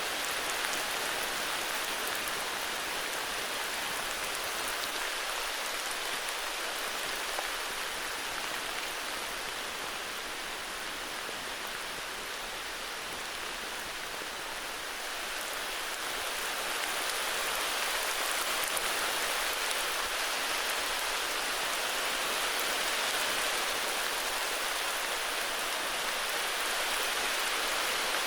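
Heavy rain falling steadily, a dense even hiss of drops with no distinct patter, easing a little midway and picking up again.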